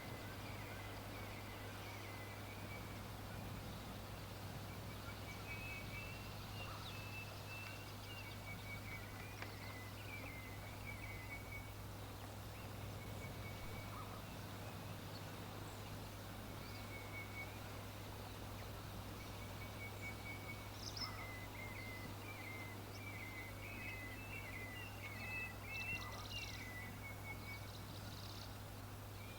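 Small birds chirping in short repeated trills, with a few higher calls about two-thirds of the way through and near the end, over a steady low hum.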